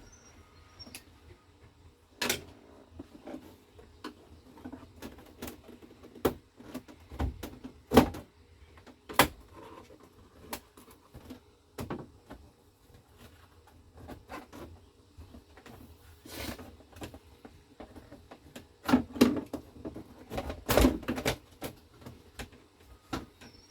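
Irregular clicks, knocks and rattles of plastic dashboard trim being handled and fitted back into place, with one loud knock about eight seconds in and a burst of knocks near the end.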